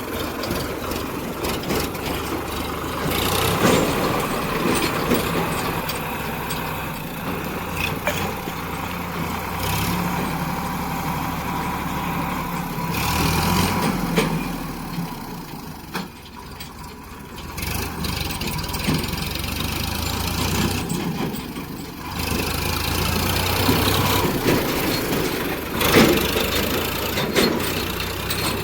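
Tractor engine running, its pitch and level shifting as it is driven, with a quieter stretch about halfway through and a few sharp knocks.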